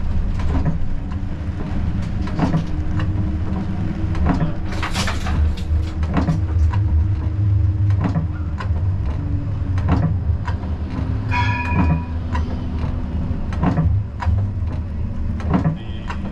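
Siemens Combino tram running on its rails, heard from the driver's cab: a steady low rumble with frequent clicks and knocks from the wheels over rail joints and points. There is a short hissing burst about five seconds in and a brief high ringing tone around eleven seconds.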